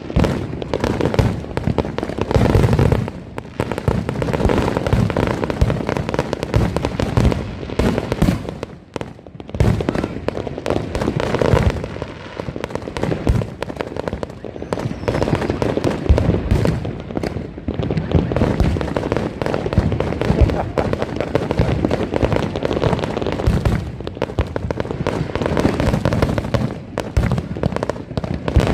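Dense, continuous barrage of consumer fireworks and firecrackers: many overlapping bangs and crackling, with a brief lull about nine seconds in.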